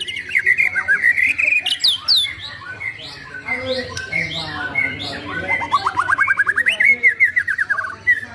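White-rumped shama singing a varied song of quick whistles and sweeping notes, with a fast run of short repeated notes in the second half.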